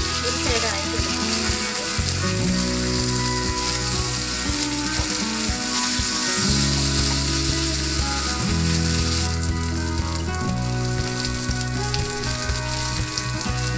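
Salmon fillets frying in butter in a ridged grill pan, a steady sizzle that turns more crackly about two-thirds of the way through.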